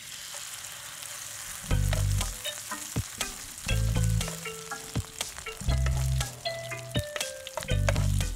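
Shredded cabbage and carrot in egg batter sizzling as it hits hot oil in a frying pan, with crackles of spattering oil and a metal spoon spreading the batter in the pan. A low thump comes about every two seconds.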